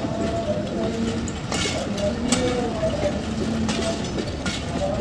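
Passenger train moving slowly out of the station: a steady rumble of the carriages, with wheels clacking sharply over rail joints about four times and wavering squeals from the wheels.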